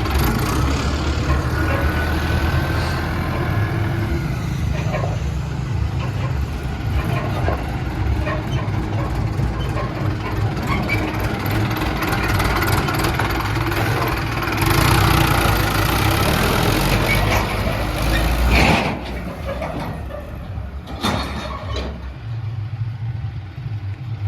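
Tractor diesel engine running steadily under load. It grows louder for a few seconds past the middle, then eases off, with a sharp knock or two near the end.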